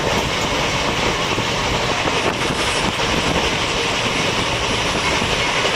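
Passenger train running at speed: the steady rumble of the coach's wheels on the track, with no break or change.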